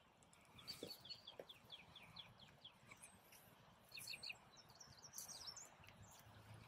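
Faint songbird chirping: a quick run of short, high chirps at about five a second for roughly two seconds, then a few scattered chirps.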